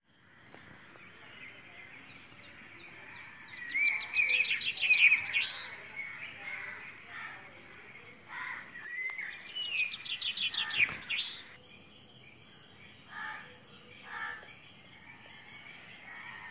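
A bird sings a quick run of rising, trilled notes twice, about four and nine seconds in, with a few softer calls later, over a steady high-pitched insect drone.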